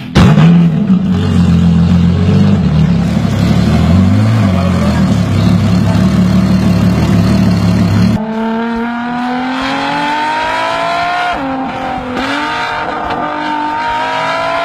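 Loud car engine rumbling at low revs, blipped lightly twice. At about eight seconds it cuts to a high-revving engine accelerating hard, its pitch climbing and dropping back at two gear changes before climbing again.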